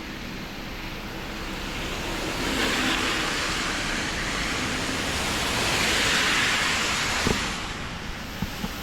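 Hiss of vehicles passing on a rain-wet road, swelling twice over a steady wash of wind and rain noise, with a few short knocks near the end.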